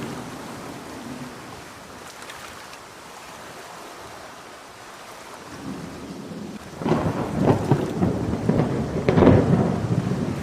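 Steady rain, then about seven seconds in a close thunderclap breaks in with sharp crackling over a heavy rumble, loudest near the end.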